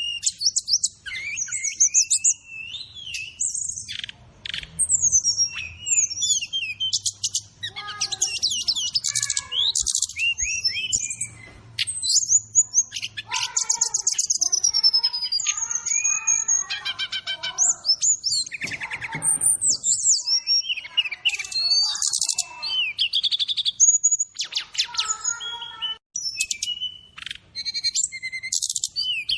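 Ruby-cheeked sunbird (SRDC) singing a fast, varied song of high chirps, rapid trills and sweeping whistles, with hardly a pause.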